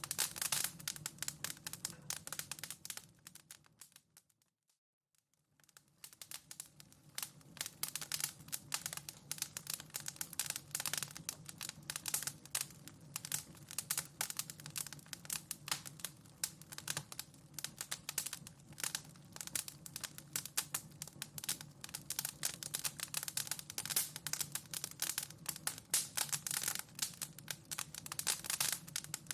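Wood fire in a fireplace crackling, with dense irregular pops and snaps over a steady low rumble. About four seconds in it fades almost to silence for a second or so and then returns.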